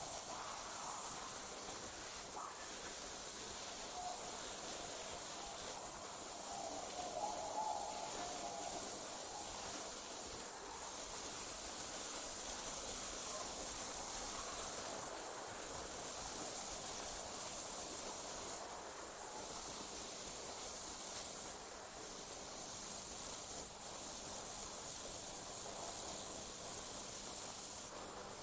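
Night insects, crickets, trilling in a continuous high-pitched chorus that drops out for short moments every few seconds.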